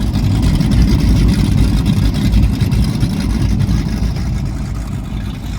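High-performance powerboat engines idling with a loud, deep rumble, easing off slightly near the end.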